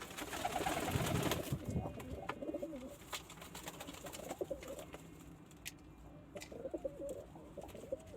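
Domestic pigeons cooing in several runs of wavering coos, with scattered sharp clicks and a louder noisy stretch about a second in.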